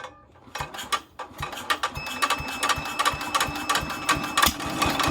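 A machine running with a rapid, irregular mechanical clatter of ticks and knocks. About two seconds in, a steady high-pitched tone joins it.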